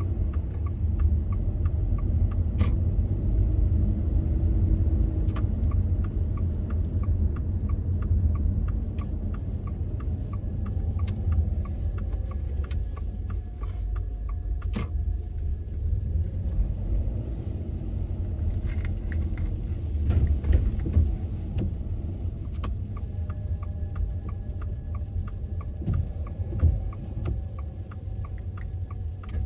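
Car cabin sound while driving: a steady low road and engine rumble, with a regular light ticking over much of it and a couple of brief knocks.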